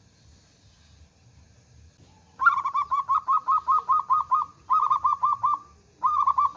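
Zebra dove (perkutut) calling: a rapid run of short, clipped coos at about six a second, starting about two and a half seconds in and coming in three bursts with brief pauses between.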